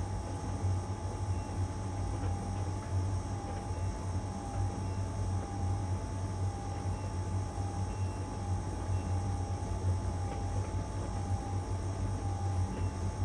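LG heat pump dryer running mid-cycle during the drying phase: a steady low hum with a faint higher tone that wavers at an even pace, and occasional faint ticks.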